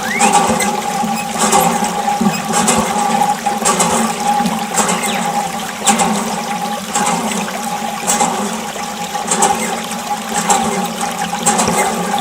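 Small electric mini water pump running with a steady whine while water sprays and splashes.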